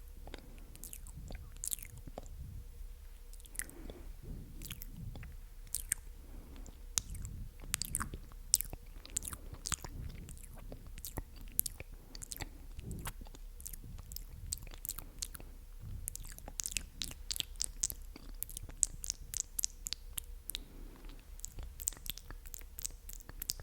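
Close-miked ASMR mouth sounds: wet, sticky clicks and smacks of lips and tongue in a continuous crackle that grows denser in the second half.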